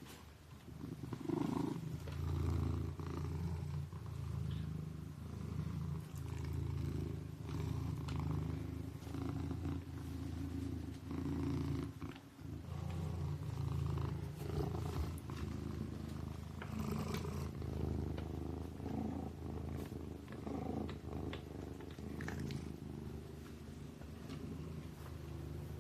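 Kitten purring steadily: a low rumble that swells and eases with each breath, about every two seconds, with one brief break about halfway through.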